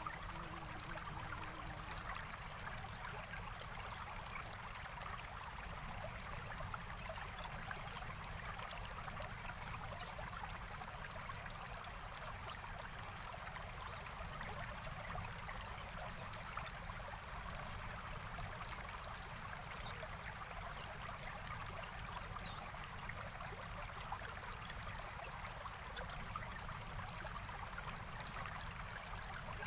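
Forest stream flowing and babbling steadily. A bird gives a couple of brief faint high chirps, about ten seconds in and again a little past the middle.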